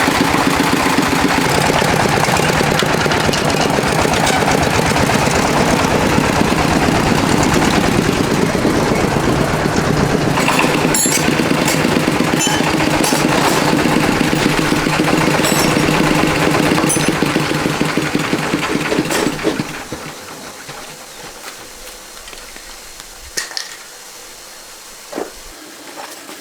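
A small farm tractor's diesel engine running with a rapid, steady chugging, then dying away about twenty seconds in. A few sharp knocks follow near the end.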